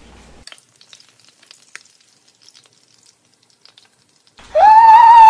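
Faint, scattered crackling of frying food. About four seconds in, a child's voice comes in loudly, singing a long high held note.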